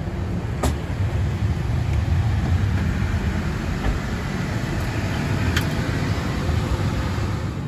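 Steady low rumble of an Airbus A321neo, with a couple of sharp clicks.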